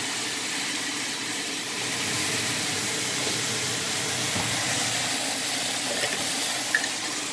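Sliced bitter melon frying in a pan, a steady sizzling hiss.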